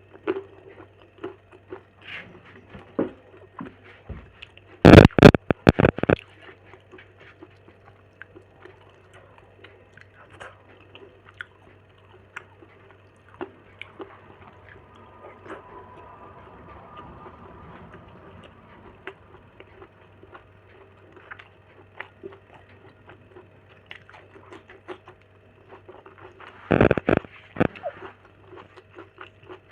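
Close-miked chewing, biting and wet mouth sounds of a person eating chicken gravy and fried egg, with many small smacks and clicks. There are two louder bursts of noise, about five seconds in and near the end.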